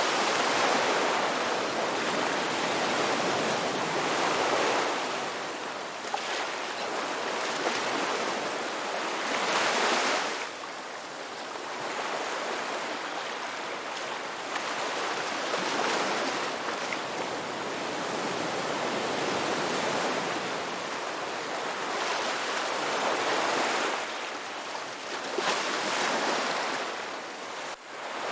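Ocean waves breaking and washing up a beach, the surf swelling and falling back every few seconds in a steady rush of water.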